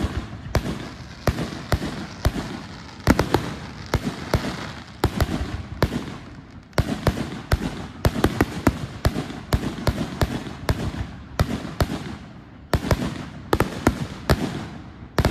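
Fireworks going off in a dense, irregular run of sharp bangs, roughly two a second, each trailing off briefly, with crackling between them.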